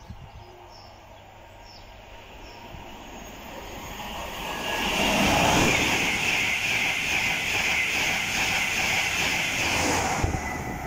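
LNER express passenger train passing through a station at speed without stopping. A rushing rail noise builds over the first few seconds, stays loud while the coaches go by, and drops off sharply about ten seconds in as the last coach clears.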